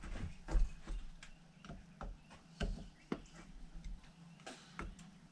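Irregular light clicks and taps, about a dozen of them, from a screwdriver and small metal carburetor parts being handled and fitted, some with a dull knock.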